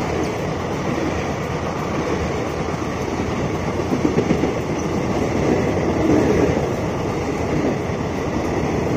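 Passenger coaches of an express train running through a station at speed: a steady rushing noise of steel wheels on the rails, with louder wheel beats about four and six seconds in.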